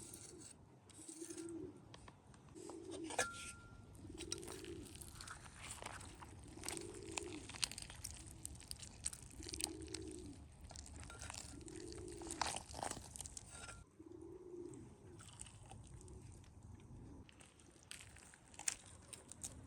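A dove cooing, a low arched call repeated about once every second and a bit, eight times, stopping about two-thirds of the way in. Scattered sharp crunches and clicks run alongside.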